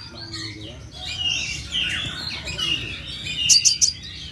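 A kolibri ninja sunbird singing a fast, busy twittering song of high chirps, with a quick run of sharp high ticks near the end.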